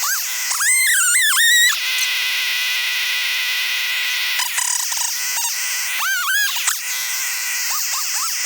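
Stihl MS 500i chainsaw bucking logs, played sped up, so each rev of the throttle comes out as a rapid, high, rising-and-falling chirp several times a second, with two longer swooping passages.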